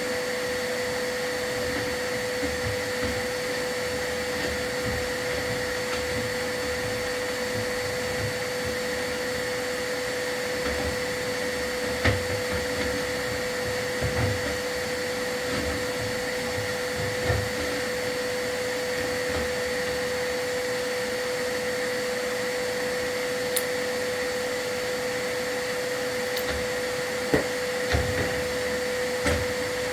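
A vacuum running steadily with a constant whine, with a few short knocks scattered through.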